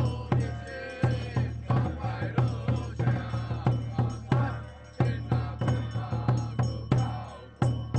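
Taoist temple ritual music: a steady beat of drum and percussion, about one and a half main strokes a second with lighter hits between, under a chanted voice line.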